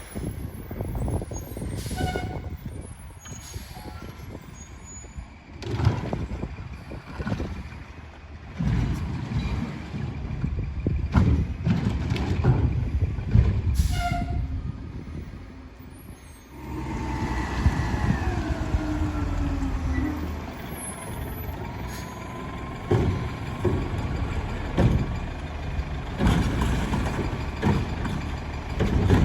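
Rumpke Curotto-Can garbage truck working a recycling pickup: its diesel engine runs with repeated knocks and clanks, and a whine that slides down and back up about halfway through.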